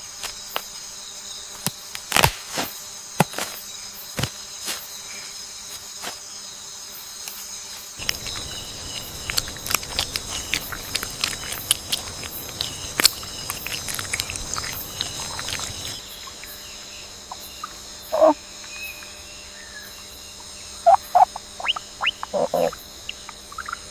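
Night rainforest ambience: a steady, high-pitched insect chorus trilling throughout, with scattered sharp clicks and snaps, and a few short chirping calls late on.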